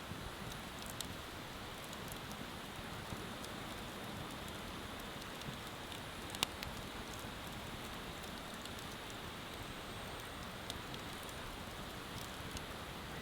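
Wood bonfire crackling, with a few sharp pops, the loudest about halfway through, over a steady hiss.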